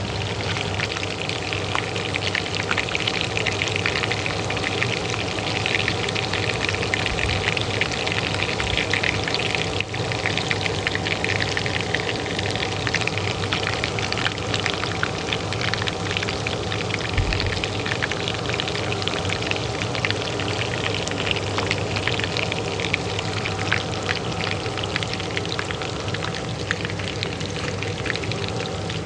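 Oil frying in a pan with a dense, steady crackle and sizzle, over the steady hum of a kitchen range hood fan.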